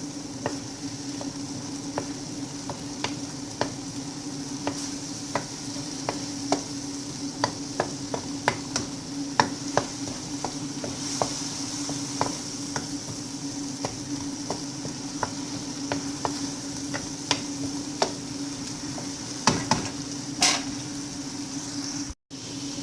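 Utensil stirring food in a frying pan, with irregular sharp clicks and scrapes against the pan over a steady sizzle of garlic and ginger sautéing in oil.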